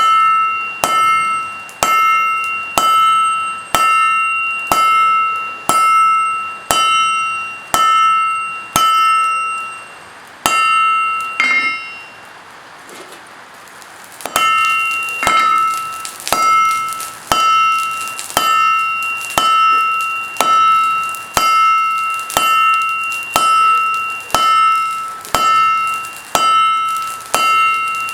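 Forging hammer blows on steel at the anvil, about one a second, each followed by a bright metallic ring. About halfway through, the blows stop for roughly two seconds, leaving only a steady hiss, then start again.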